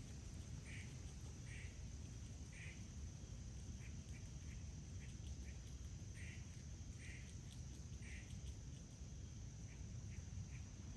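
Birds calling outdoors: a harsh call repeated about three times in a row, twice over, with faint short chips in between, over a steady low rumble.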